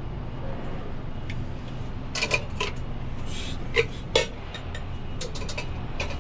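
Pieces of scrap metal clinking and clanking as they are handled and dropped, with a few sharp ringing knocks about two seconds in and two louder ones around four seconds, over a steady low hum.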